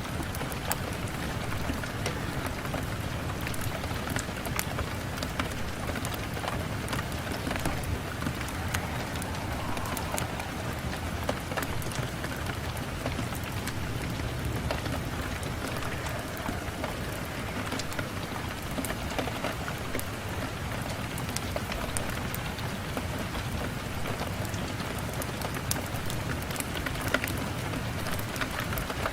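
Steady rain on a window: an even hiss of falling rain, dotted with many small, sharp drop ticks.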